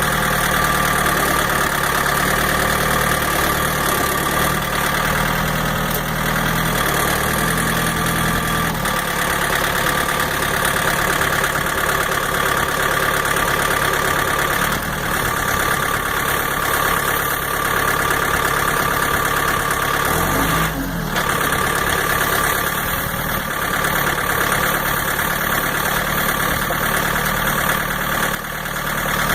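Skid steer engine running steadily, with a brief change in engine pitch about two-thirds of the way through.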